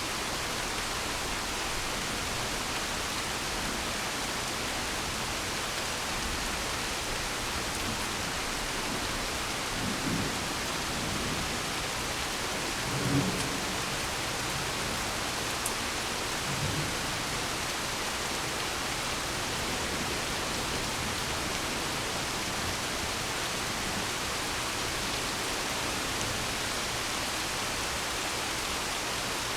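Steady rain with three short low rumbles of thunder in the middle, the loudest about halfway through.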